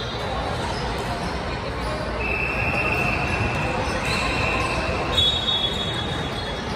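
Sounds of a basketball game in a gym: a ball bouncing on the court amid indistinct voices, with a thin steady high tone for a few seconds in the middle.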